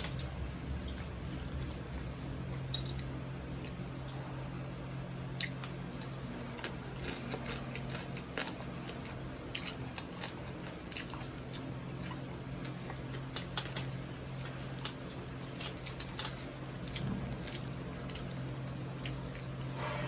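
Close-up chewing and biting of crispy deep-fried pork knuckle, with short crackly crunches scattered through, more from about five seconds in, over a steady low hum.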